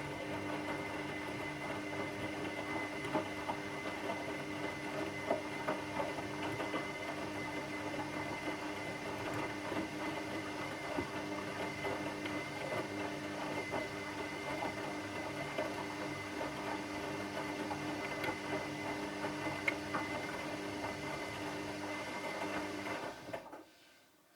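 Washing machine running with a steady motor hum and a constant light rattle of small clicks, then cutting off abruptly near the end.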